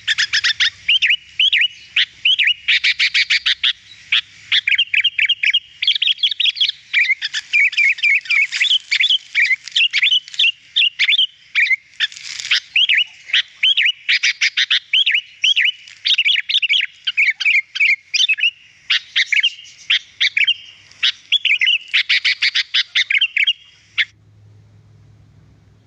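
Sooty-headed bulbul singing vigorously: a dense, fast run of bright chirps and short whistled phrases that stops about two seconds before the end, leaving a faint low hum.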